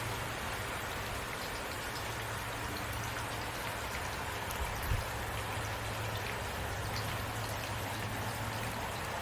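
Steady rainfall, with individual drops ticking through an even hiss and a steady low rumble underneath. A single soft low thump comes about five seconds in.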